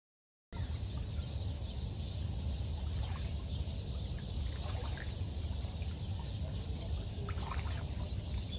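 Steady rushing noise like running water, with scattered faint bird chirps over it. It starts abruptly about half a second in.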